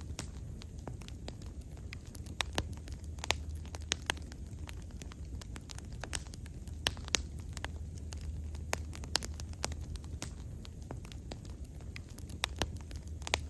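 Wood fire crackling, with sharp irregular pops and snaps over a low steady rumble of the flames.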